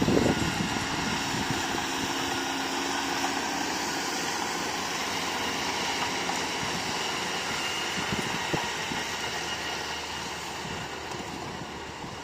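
Bulldozer diesel engine running steadily under work, with a louder surge right at the start and a few short knocks from the machine about eight seconds in.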